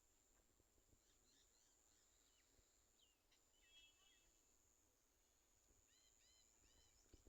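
Near silence: faint, scattered small-bird chirps over a thin, steady high whine.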